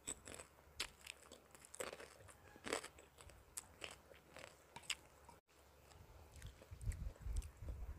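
A person chewing kerupuk (Indonesian crackers) with the mouth closed: a series of irregular crisp crunches over the first five seconds, then softer, duller chewing sounds near the end.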